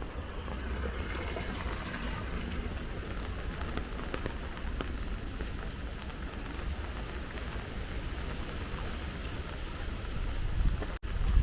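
Steady rain falling, with scattered sharp drips and a low rumble underneath. The sound cuts out for an instant near the end.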